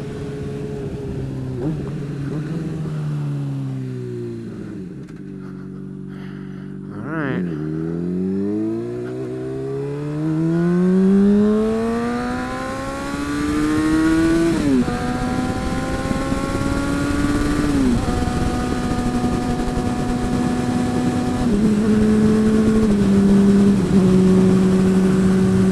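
Honda CBR sport bike engine while riding. The revs fall over the first few seconds to a low, steady run, then climb as the bike accelerates, with upshifts about halfway through and again a few seconds later. It settles into a steady cruise with smaller steps near the end.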